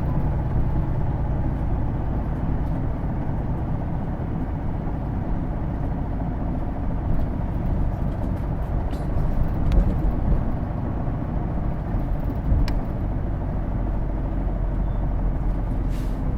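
Inside a Hino Blue Ribbon II route bus under way: steady diesel engine drone and road noise, with a few brief rattles and clicks from the cabin.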